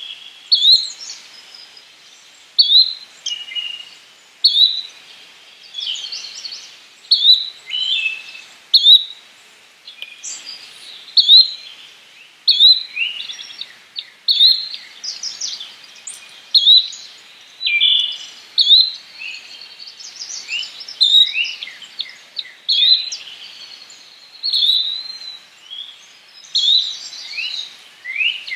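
Yellow-bellied flycatcher calling: a short, high call repeated about every one and a half to two seconds, with other chirping bird notes overlapping, more of them in the second half.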